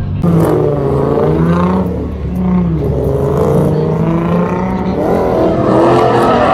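Infiniti G35's 3.5-litre V6 revving during a drift run, its pitch rising and falling several times and climbing again near the end.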